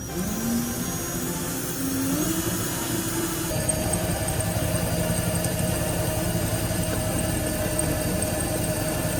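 Electric power tool motor spinning up with a rising whine, then running at a steady pitch from about three and a half seconds in.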